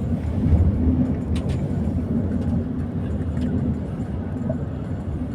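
Vehicle running: a steady low rumble of engine and road noise.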